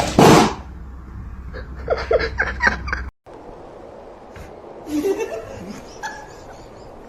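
A person laughing in short bursts, cut off abruptly about three seconds in.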